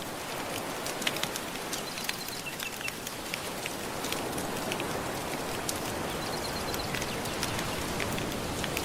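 Wood fire crackling with many small sharp pops over a steady wash of gentle ocean waves.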